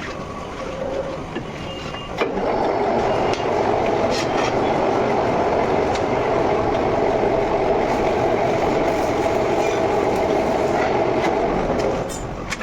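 Steady mechanical noise of machining a rotor shaft's bearing seat to size, starting about two seconds in and stopping near the end.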